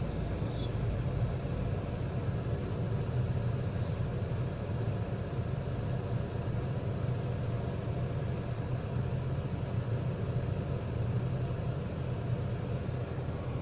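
Ashok Leyland 3118 twin-steer multi-axle truck's diesel engine running steadily, a continuous low rumble.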